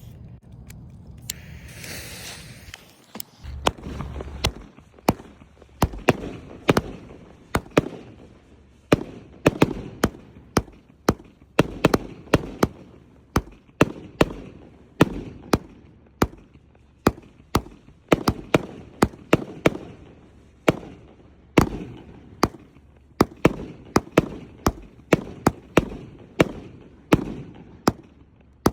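A fireworks fuse hissing for about two seconds, then a long run of sharp bangs, roughly two or three a second, as the firework fires shot after shot.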